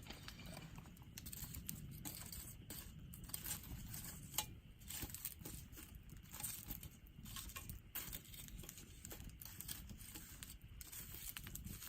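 Firewood burning in a small fire pit, crackling with irregular sharp pops over a low rumble of flame. One louder pop comes about four and a half seconds in.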